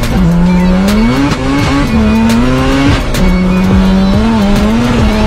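Honda Civic EK3 hatchback engine under hard acceleration, heard from inside the cabin: the engine note climbs steeply in pitch and drops sharply at each upshift, several times, then holds nearly steady near the end.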